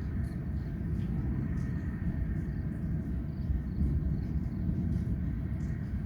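Wind buffeting the microphone during a storm: a steady, gusting low rumble.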